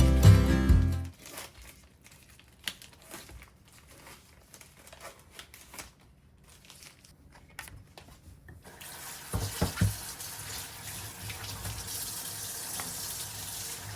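Kitchen tap running into a sink, starting about nine seconds in after several seconds of faint clicks and knocks, with a few louder knocks as the water comes on.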